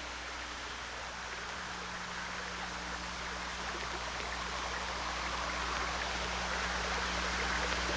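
Steady rushing water, like a stream, slowly growing louder, over a low steady hum.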